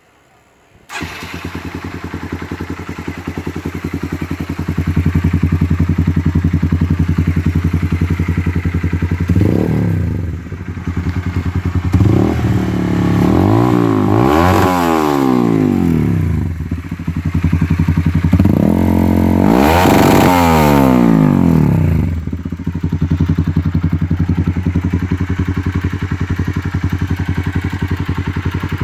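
Honda CBR125R single-cylinder four-stroke engine through a GL Pro Racing aftermarket exhaust. It starts about a second in and idles, then is revved up and back down several times before settling back to idle.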